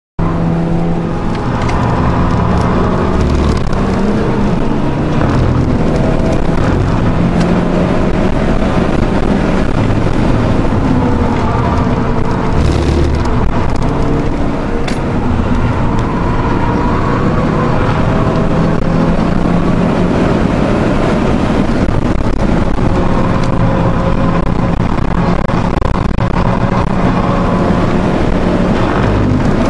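Volkswagen Golf GTI Mk5's turbocharged four-cylinder engine under hard acceleration, heard from inside the cabin. The engine note rises and falls over steady road and wind noise.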